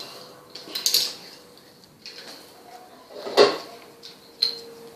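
A sheet of paper being handled and folded by hand: three short rustles, the loudest about three and a half seconds in.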